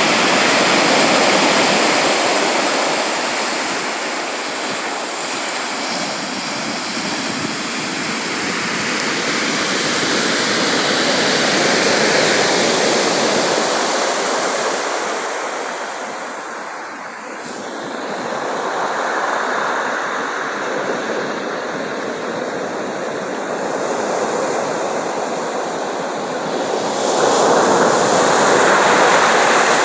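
Sea surf: waves rushing and washing in a steady wash of noise that swells and eases every few seconds, dipping about halfway through and rising to a louder surge near the end.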